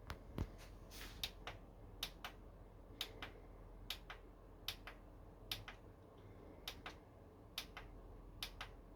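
Light, sharp clicks, mostly in quick pairs, repeating about once a second.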